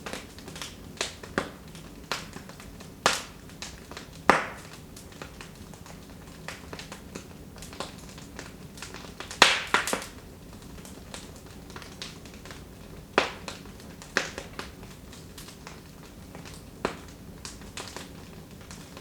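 Wood fire crackling in a fireplace: irregular sharp pops and snaps over a soft steady hiss, with the loudest cluster of pops about nine and a half seconds in.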